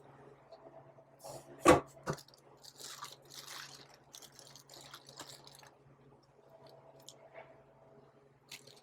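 Handling noises on a kitchen counter: two sharp knocks about a second and a half and two seconds in, the first the loudest, then a few seconds of rustling and crinkling, over a faint steady hum.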